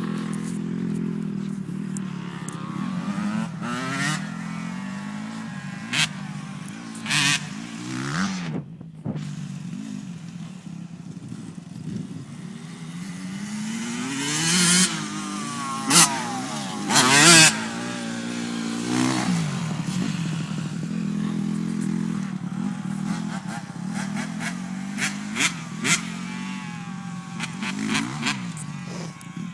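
Dirt bike engines revving up and down over and over as the bikes ride and jump, with the pitch climbing and falling again and again. Several short, loud noise hits come in the middle of the stretch.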